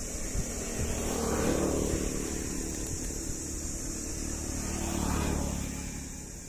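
Vehicles passing by over a steady engine hum: two swelling rushes of engine and road noise, the first about a second and a half in, the second near the end, each rising and then fading.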